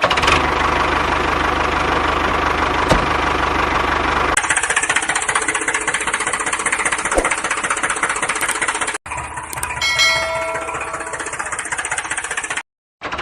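An engine running steadily, broken by sudden cuts about a third of the way in, about two-thirds of the way in and again just before the end.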